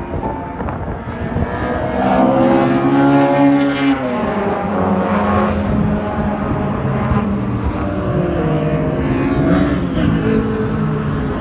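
Sports-car engines running hard on a race track, several cars passing. A louder one builds up about two seconds in and drops in pitch as it goes by just before the four-second mark, and another passes near the end.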